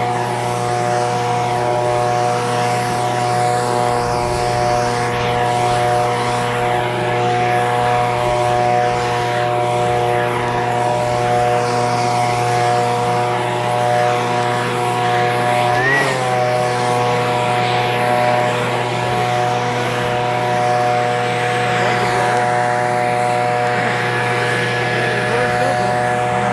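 Echo PB-2620 handheld leaf blower's small two-stroke engine running steadily, with a brief wobble in pitch about two-thirds of the way through.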